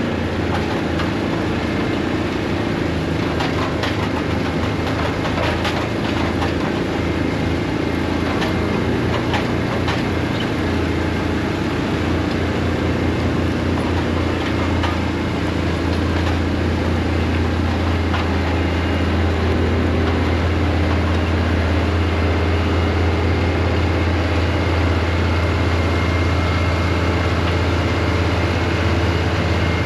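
New Holland tractor's diesel engine running steadily under load, pulling an anhydrous ammonia toolbar, with a few clicks and rattles in the first ten seconds.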